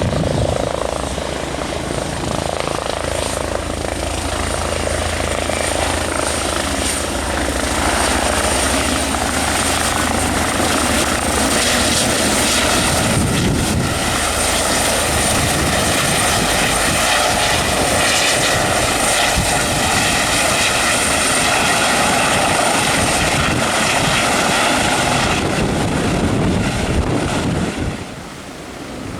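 Twin-turbine helicopter close by, rotor and turbine running steadily. It gets louder and brighter about halfway through, then the level drops sharply near the end.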